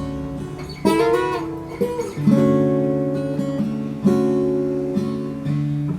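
Acoustic guitar strumming chords, each left to ring and fade before the next, about four strums in all.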